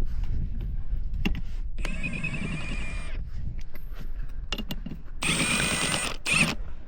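Power impact wrench run in two bursts, about two and a half seconds apart, with a high whine and rattle as it spins wheel nuts off an air seeder wheel.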